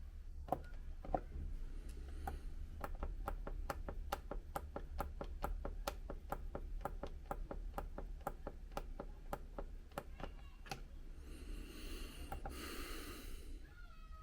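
A hardware techno rig playing a quiet pattern: short, evenly spaced clicks at about three a second, a hardcore tempo, over a steady low hum. Near the end a hiss swells and fades.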